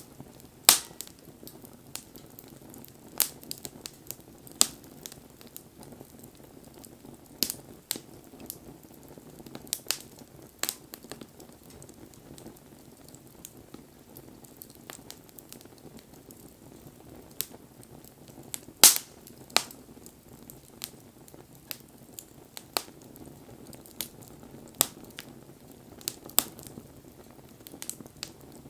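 Wood fire crackling: irregular sharp pops and snaps over a soft steady hiss, the loudest pops about a second in and about two-thirds of the way through.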